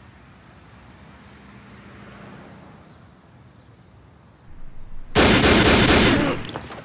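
Explosion sound effect: a sudden loud blast about five seconds in that lasts about a second and then dies away, after a few seconds of low background noise.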